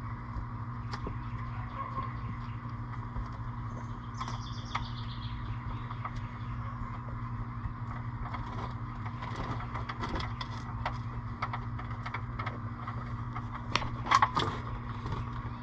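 Oil drain bolt being unscrewed by hand from the oil pan of a 2014 Mustang GT 5.0: scattered small clicks and knocks over a steady low hum, with a louder clatter near the end.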